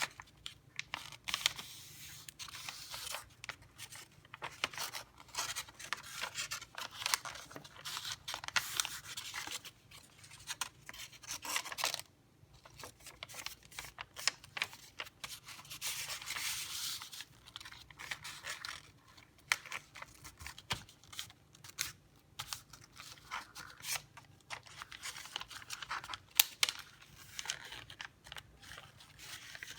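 A sheet of paper being handled and folded, with intermittent crisp rustling and scraping as folds are pressed and creased, broken by short sharp crackles.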